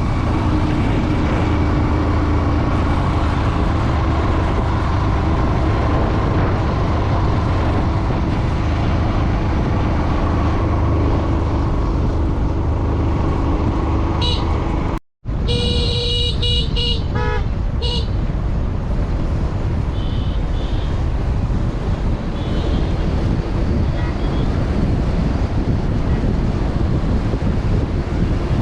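Steady road and wind noise from riding along a road. About halfway through, after a brief dropout in the sound, a vehicle horn honks in several short toots, and fainter toots follow a few seconds later.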